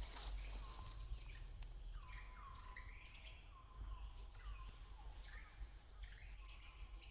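A few soft wet chewing clicks as a baby macaque eats mango, then a bird calling over and over, each short note sliding down in pitch and settling, about one to two notes a second, over a low steady outdoor hum.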